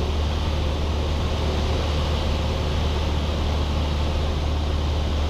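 Cessna 172's four-cylinder piston engine and propeller droning steadily in flight, heard through the aircraft's intercom as an even low hum with a wash of noise.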